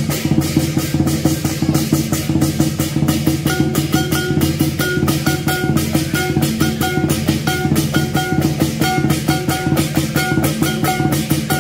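Lion dance percussion playing a fast, steady beat: drum strikes with clashing cymbals, over a sustained low ringing and a short repeating melodic figure.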